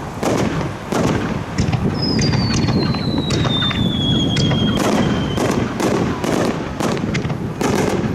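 Fireworks display: aerial shells banging and crackling in quick, irregular succession, with one long whistle that slides down in pitch over about three seconds.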